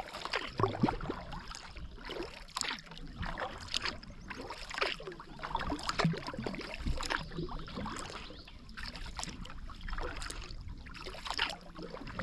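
Kayak paddle strokes: the blades dip into the water, splashing, with water trickling and dripping off them in an uneven patter.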